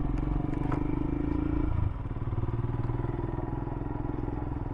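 Royal Enfield Himalayan's single-cylinder engine pulling at low speed, easing off about two seconds in and then running on more quietly. There are a couple of light clicks in the first second.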